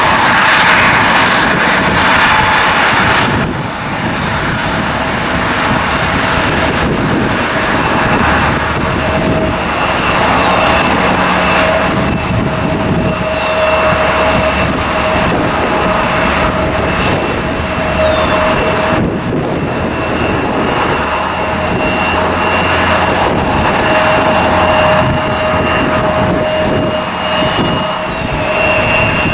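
Jet airliner engines running with a steady whine that creeps slightly higher in pitch, over a low rumble, with wind buffeting the microphone.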